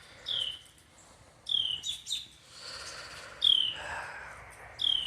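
A bird calling over and over: short, high chirps that slide downward, about one every second and a half, with a soft rasping noise for a second or so in the middle.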